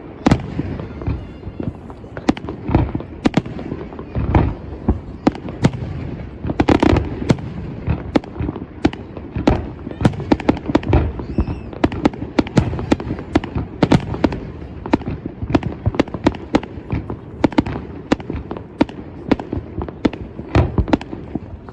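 Many fireworks going off at once: a dense, unbroken stream of sharp bangs and crackles, several a second, overlapping and echoing.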